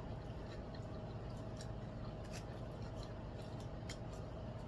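Chewing and faint, irregular wet mouth clicks from eating, over a steady low hum.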